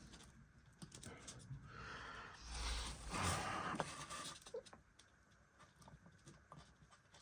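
Light clicks and taps of small model-locomotive parts being handled at the bench, with a louder rush of noise about two seconds in that lasts a couple of seconds.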